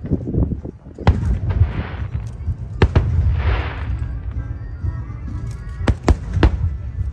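Aerial fireworks shells bursting: several sharp bangs, with a crackling hiss trailing after some, over a low rumble and the show's accompanying music.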